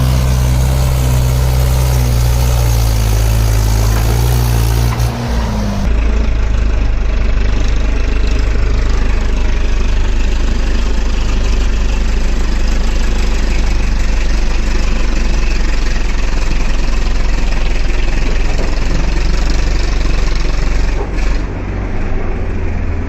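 Mahindra 575 DI tractor's four-cylinder diesel engine running loud and steady. About six seconds in, the sound changes abruptly from an even pitched drone to a rougher, heavier rumble.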